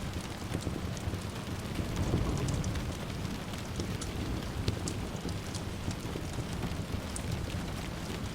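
Steady rain with a low rumble of distant thunder swelling about two seconds in, over the sharp scattered crackles of a wood fire in a fireplace.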